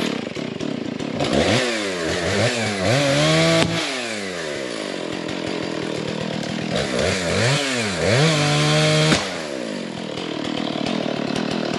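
Chainsaw running at high throttle, its pitch sweeping up and down twice as it is revved and eased off, with steady full-speed running in between.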